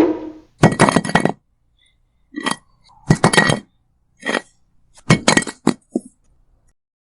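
A small electric motor whines down to a stop, then hard small objects clink against each other in about six short clusters separated by silences.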